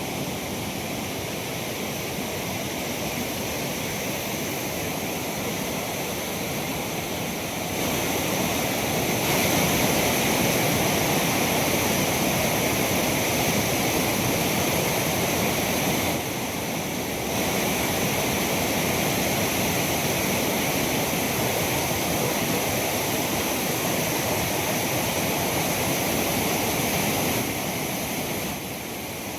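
Loud, steady rush of fast-flowing floodwater, a swollen river in spate. It steps up in loudness about a quarter of the way in and drops back near the end.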